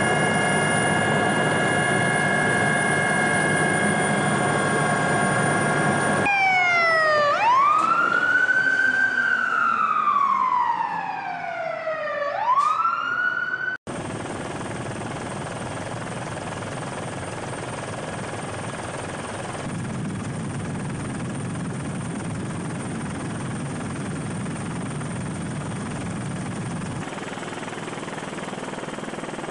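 Steady machine hum with a high whine, cut abruptly to an emergency-vehicle siren wailing slowly up and down through about one and a half cycles, then cut back to a steadier, noisier engine hum, the kind heard inside a helicopter.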